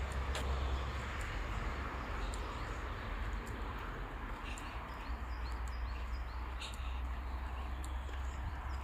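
Small birds chirping in short, high calls over a steady low rumble and hiss, with scattered faint clicks.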